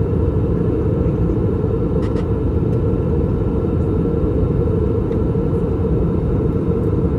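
Steady low rumble of an Airbus A321-200 cabin in flight during descent: airflow and its IAE V2533-A5 engines heard from a seat near the wing, even throughout, with a faint click about two seconds in.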